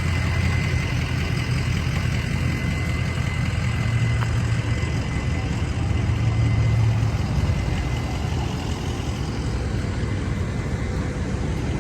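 Car engine running at low speed with a steady low rumble that swells slightly for a few seconds in the middle.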